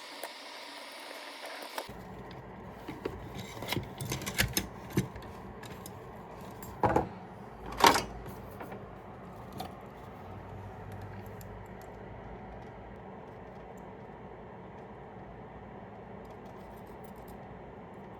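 Small tools and headphone parts clicking and tapping on a workbench during disassembly: scattered light clicks, then two louder knocks about seven and eight seconds in.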